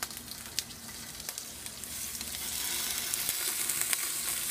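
Salmon pieces sizzling and crackling in hot extra light olive oil in a frying pan; the sizzle grows louder about two seconds in.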